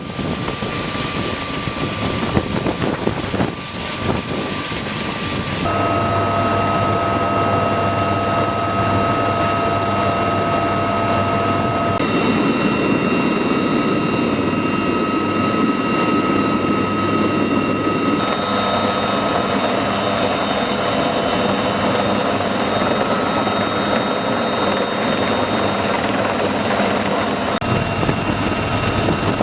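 UH-1Y Venom helicopter running, its twin turboshaft engines giving a steady whine over the rotor noise. The pitch and mix of the sound change abruptly about four times.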